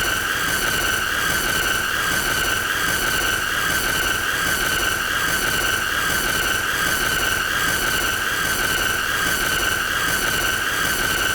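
A steady, high-pitched tone held without a break, with fainter overtones above it over a hiss and a slight slow wobble.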